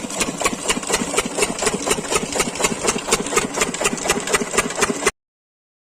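12 hp diesel engine running a borewell water pump, chugging steadily with an even beat of about five strokes a second. The sound cuts off suddenly about five seconds in.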